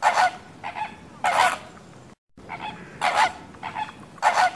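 Flamingo calls: loud, goose-like honks, several in a row, from a short recording that cuts out briefly about two seconds in and then plays again.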